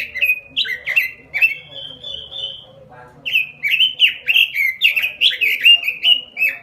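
Pekin robin (red-billed leiothrix) singing a fast run of short whistled notes that slur up and down, pausing briefly about three seconds in before starting again.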